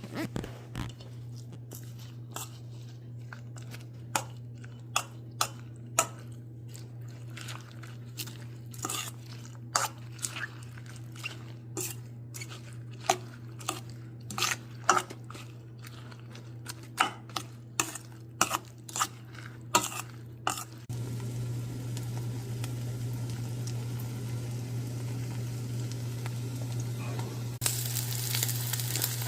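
Kitchen cooking sounds for a rolled omelette: for about twenty seconds, sharp irregular knocks and clicks of utensils over a steady low hum, then food sizzling in a hot frying pan, getting louder near the end.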